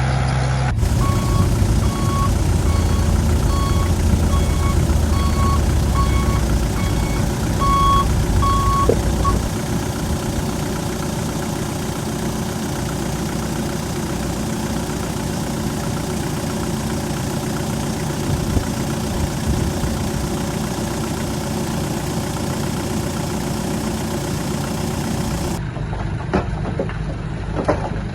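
Heavy diesel earth-moving machinery running steadily. A backup alarm beeps repeatedly through the first nine seconds or so, while a machine reverses.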